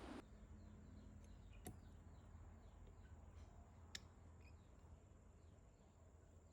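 Near silence: room tone, with two faint clicks about a second and a half and four seconds in.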